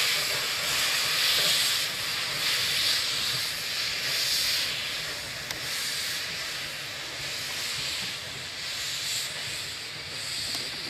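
Steam locomotive working, its hiss of steam surging in a regular beat of exhaust chuffs that slowly fade away.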